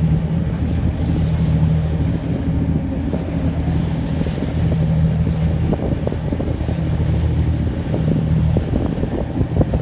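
A tour boat's engine running steadily with a low, droning hum, with wind rumbling on the microphone.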